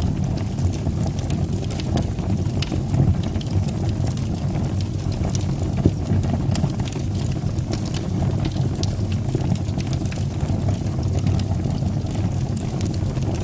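Fire burning in a fireplace: a steady low rumble of flames with scattered small crackles and pops, one a little sharper about six seconds in.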